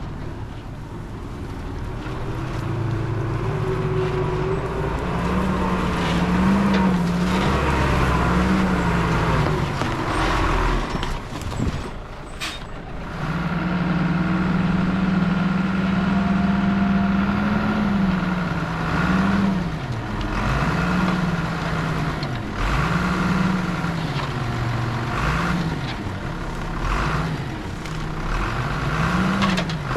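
Diesel engine of heavy earthmoving equipment working under load, its pitch swinging up and down about once a second as the throttle and load change. There is a brief sharp sound near the middle.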